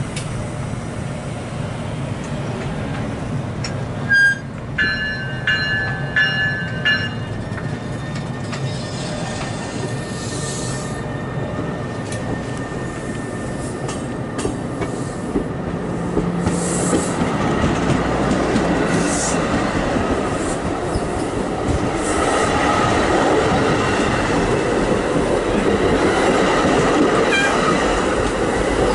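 NJ Transit bilevel commuter coaches rolling past the platform, a steady rumble of wheels on rail that grows louder in the second half. About four to seven seconds in there is a short run of high repeated beeping tones.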